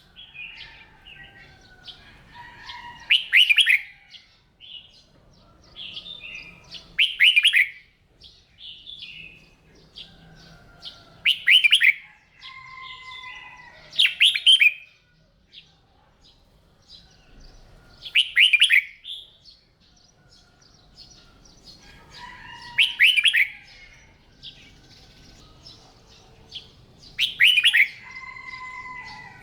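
Red-whiskered bulbul singing: loud, short, warbling phrases about every four seconds, with softer twittering notes between them.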